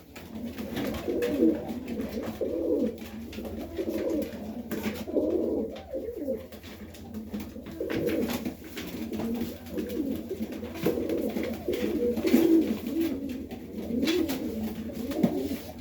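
Several Serbian Highflyer pigeons cooing continuously, their low, wavering calls overlapping one another.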